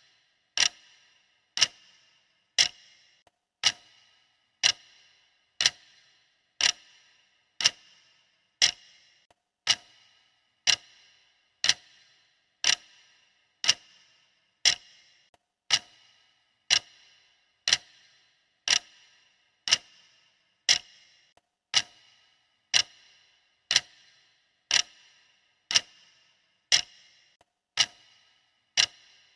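Clock-style ticking from a countdown timer, one sharp tick about every second, each with a brief ring, keeping an even pace.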